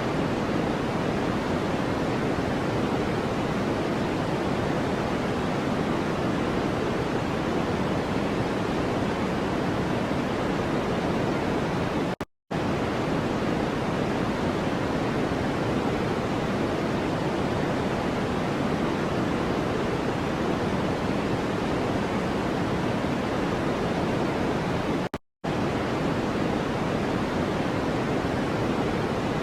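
Steady, even noise of the white-noise kind used for sleep or masking, heavier in the low and mid range than in the treble. It is broken by two very short dropouts, about twelve and about twenty-five seconds in.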